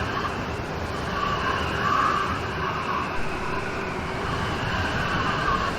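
Rain storm: steady rain falling, an even hiss.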